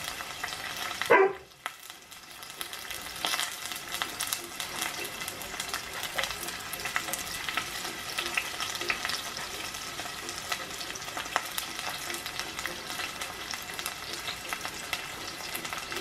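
Chopped onions frying in a saucepan on a gas hob, a steady crackling sizzle with many small pops. About a second in, a brief loud sound falling in pitch cuts across it.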